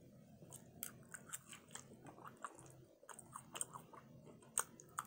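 Faint, close-up chewing of saucy barbecue rib tips, with scattered small wet clicks and smacks of the mouth.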